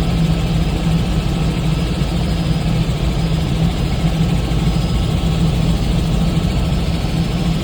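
Helicopter engine and rotor noise: a steady, loud drone with a strong low hum.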